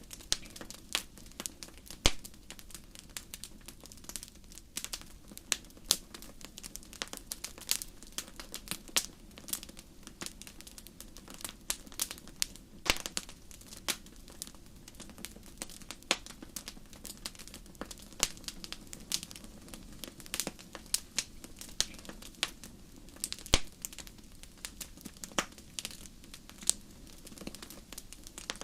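Wood fire crackling in a fireplace: irregular sharp pops and snaps, several a second, over a low steady rush of flame, with a few louder pops scattered through.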